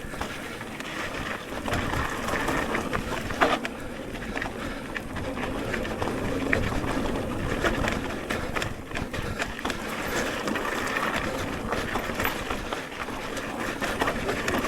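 Electric mountain bike riding a dirt trail: steady tyre and wind noise with frequent rattles and knocks from the bike over rough ground.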